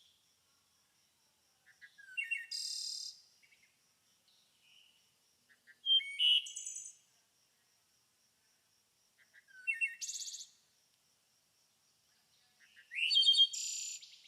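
Songbird singing in a rural setting: four short, quick phrases, each about a second long, every three to four seconds, with quiet gaps between. A faint, high, pulsing note runs steadily underneath.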